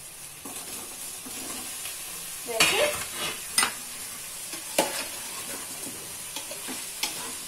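Bottle gourd pieces, onions and tomatoes sizzling in oil in an aluminium pot, with a steady frying hiss, while a metal spatula stirs them and scrapes and clinks against the pot several times; the loudest clinks come about three and five seconds in.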